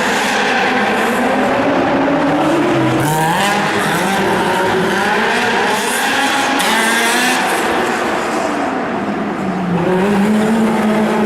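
A drift car's engine revs up and down as the car slides, with tyre squeal that is loudest in bursts about three seconds in and again around six to seven seconds in.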